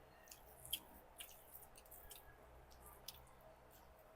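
Near silence broken by faint scattered clicks and smacks of people chewing and eating.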